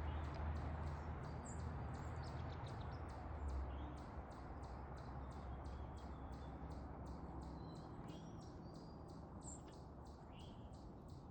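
Small backyard songbirds giving short, high chirps now and then, over a fast, even ticking about three or four times a second and a low steady rumble.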